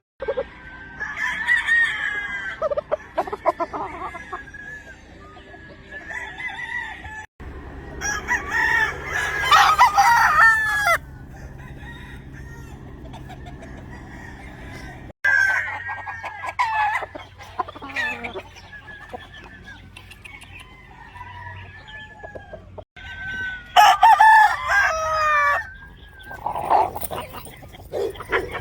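Gamefowl roosters crowing, several crows one after another, with quieter clucking and calls between. The sound breaks off abruptly three times, as at edits between shots.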